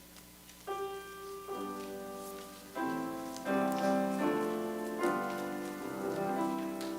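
Instrumental music on a keyboard: a slow succession of sustained chords beginning about a second in, like the opening of a hymn introduction.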